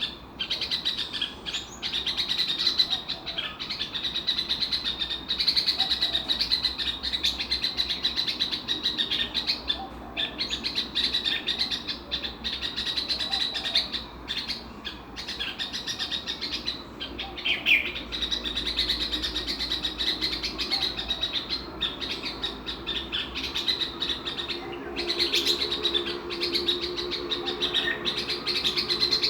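A small songbird, the Indonesian 'cicitcuit' bird, singing a long, rapid, high-pitched chattering song broken by brief pauses.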